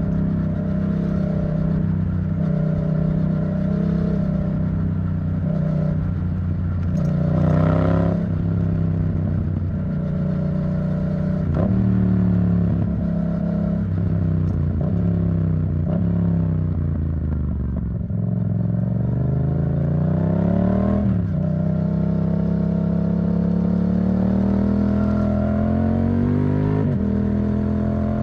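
Yamaha MT-07's 689 cc parallel-twin engine through an Arrow Thunder titanium exhaust, ridden on the road. The engine pitch climbs and breaks at gear changes. Around the middle it falls away in steps as the bike slows, then pulls up again and settles into a steady, gradually rising run.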